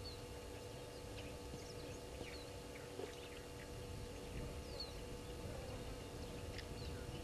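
Scattered short, high bird chirps, several a second, over a faint steady hum and a low rumble.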